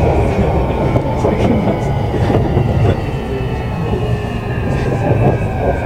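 Interior running noise of a JR East E235 series electric commuter train: a steady rumble of wheels on rail with a faint whine that falls slightly in pitch.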